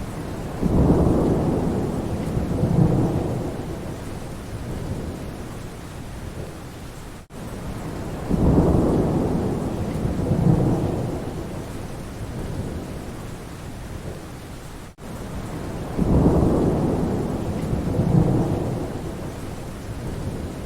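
Steady rain with a low rumble of thunder three times, about every seven and a half seconds, each rumble swelling twice and then fading. It is the same short recording looped, with a brief dropout before each repeat.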